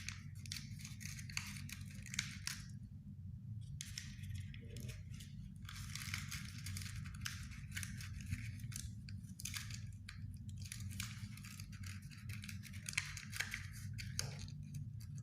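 Scissors cutting through thin cigarette-pack cardboard in quick crisp strokes, pausing for about a second a few seconds in, over a steady low hum.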